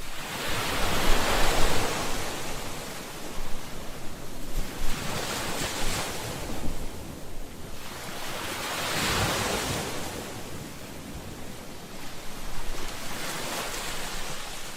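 Ocean waves breaking and washing onto the shore, the surf rising and falling in about four surges a few seconds apart.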